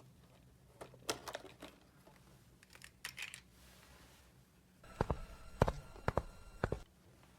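Small hard toy pieces being handled: scattered clicks and taps, then a quick run of louder knocks near the end, with a faint steady high tone sounding along with them.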